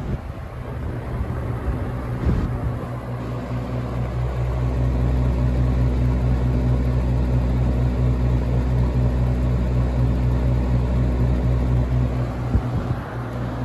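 Holmes HABF-20 box fan motor and blade speeding up over the first few seconds, after a click or two near the start, then running steadily with a deep, throbbing rumble. The rumble comes from its badly out-of-balance blade shaking the cabinet.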